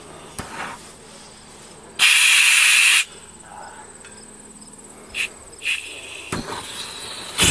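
Gas flamethrower torch giving a one-second burst of hiss about two seconds in, then a few shorter puffs, over a steady faint insect buzz.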